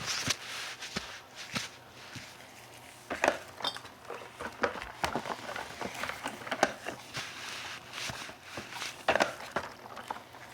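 Irregular knocks, clicks and light clatter of containers and objects being handled and set down on a work surface, with rustling between the knocks.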